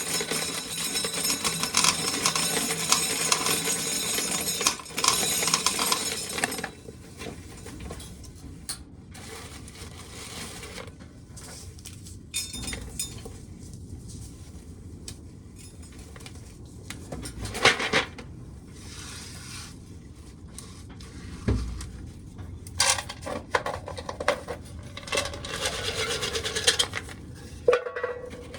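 Dry shelled corn kernels pouring and clinking onto metal, a dense rattling stream that stops about six and a half seconds in, followed by scattered shorter clatters.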